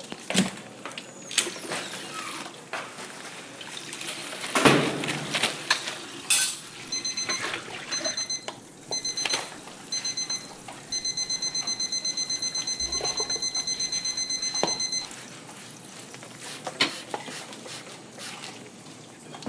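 Electronic alarm beeping: high beeps come in short groups, then run fast and unbroken for about four seconds before stopping. Scattered clicks and knocks around it, with a louder rustling scrape about a quarter of the way in.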